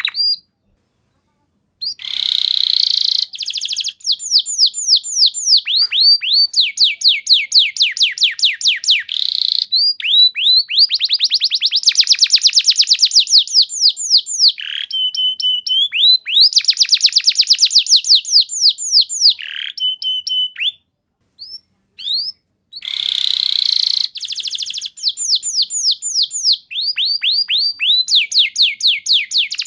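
Canary singing a long song of fast trills: phrase after phrase of rapidly repeated falling notes, changing pitch from one run to the next, with two brief pauses, one near the start and one about two-thirds through.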